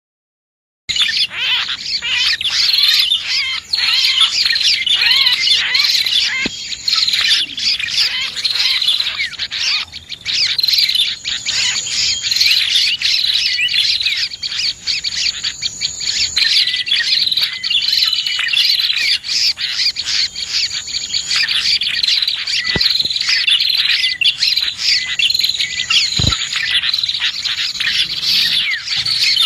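Dense, busy chirping and twittering of many small birds, a bird-lure recording of prenjak (prinias) and other small birds. It starts abruptly about a second in.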